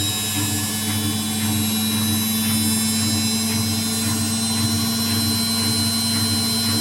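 Indesit WIU 81 front-loading washing machine running, with a steady motor hum and whine and a low throb that pulses about twice a second.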